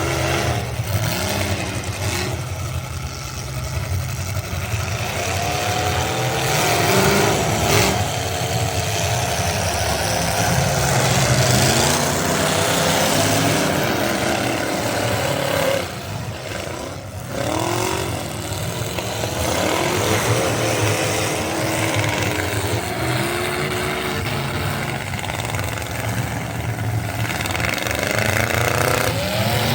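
Race truck engine revving under load, its pitch rising and falling as it accelerates and lifts. It drops off sharply about sixteen seconds in, then climbs back up.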